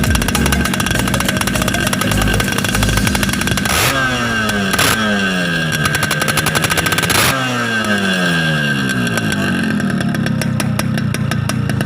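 Yamaha RX-King's two-stroke single-cylinder engine running loud through an aftermarket racing exhaust. The engine is revved, and the revs fall away in long downward sweeps twice, about four and seven seconds in.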